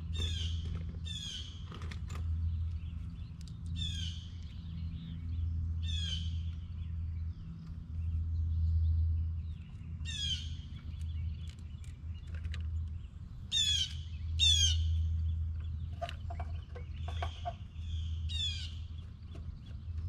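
A songbird calling over and over, short downward-sliding chirps about every one to two seconds, over a steady low rumble.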